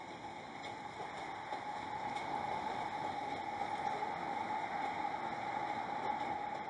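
Steady rushing noise from a rail yard, with a distant train moving slowly and wind on the microphone. It grows slightly louder about a second in.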